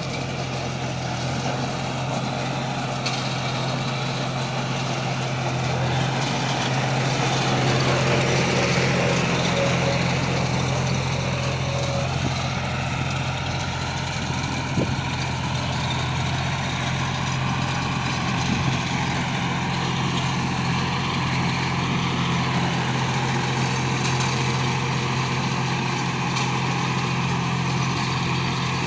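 John Deere 5042 D tractor's three-cylinder diesel running steadily as it powers a straw baler. A faint whine slowly rises in pitch over the second half, and there is a single sharp click about halfway through.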